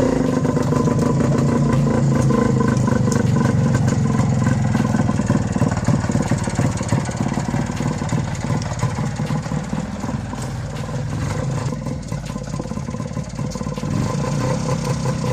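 Tula Muravey cargo scooter's single-cylinder two-stroke engine idling steadily while it warms up, running quietly and evenly. It dips a little in loudness about two-thirds of the way through.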